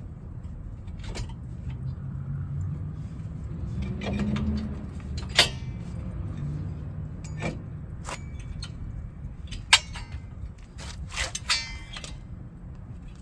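Metal brake parts and hand tools clinking and tapping during a caliper and pad reassembly: scattered sharp clicks, two of them ringing briefly, about five and a half seconds in and near the end, over a low steady rumble.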